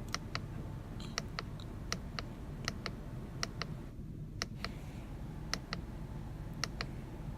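The indicator ticker of a 2016 Mercedes-Benz GLE 350 ticking inside the cabin. It makes a tick-tock pair of clicks about once a second over a low steady hum.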